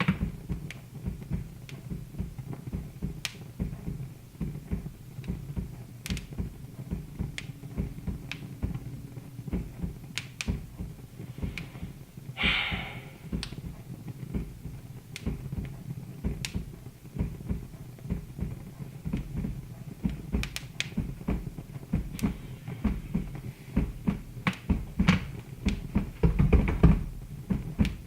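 Wood fire crackling in a fireplace: irregular sharp pops and snaps over a steady low rumble of the flames, with a short hiss about halfway through.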